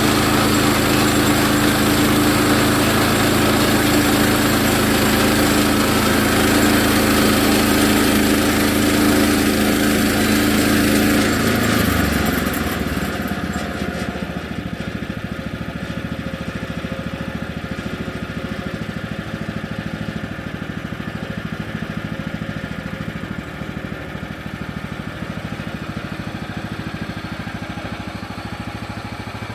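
Sawmill's gasoline engine running steadily at high speed, then throttled down about twelve seconds in to a lower, quieter idle.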